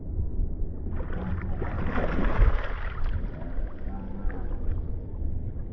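Wind buffeting the microphone: a steady low rumble, with a louder rush of noise from about a second in that eases near the end.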